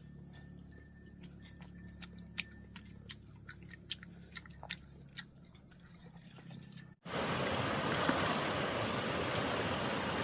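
A quiet stretch with a steady high insect chirring and scattered light clicks. About seven seconds in it cuts abruptly to the loud, even rush of a flowing stream.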